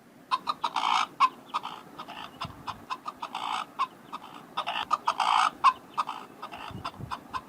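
Peacock calling: a rapid run of short calls, with a few longer, drawn-out ones about a second in, after three and a half seconds and after five seconds.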